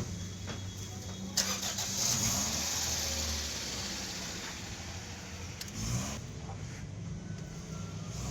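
Peugeot 2008 engine starting and running. A sudden rushing noise sets in about a second and a half in and fades after several seconds.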